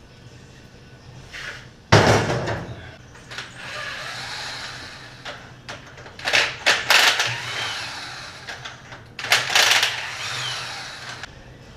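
Metal engine parts being handled and set down during a small-block Chevy tear-down. A heavy clunk comes about two seconds in, followed by clattering, scraping knocks in two more bursts.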